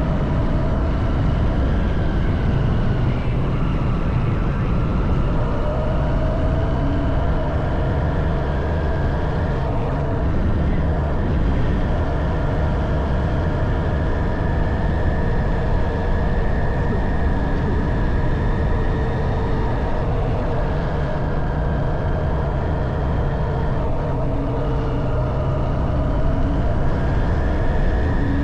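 Honda CB190R's single-cylinder engine running under way, its pitch rising and falling gently with the throttle, over a heavy low rumble of wind and road noise.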